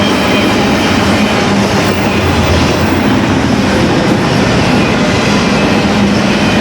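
Freight cars of an intermodal stack train rolling past: a loud, steady rumble of steel wheels on rail, with a faint thin squeal above it.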